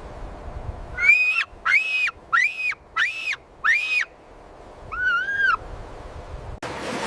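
An animal calling: five shrill, evenly spaced calls about two-thirds of a second apart, then one lower, softer call. Near the end a steady noisy roar starts abruptly.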